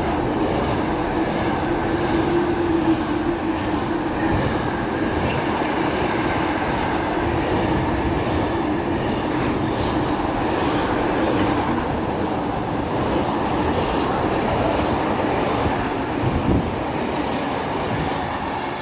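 A Freightliner container train hauled by a pair of Class 90 electric locomotives passing through: a steady, continuous rumble of wagon wheels on the track. A humming tone is strongest in the first few seconds and fades out over about ten seconds.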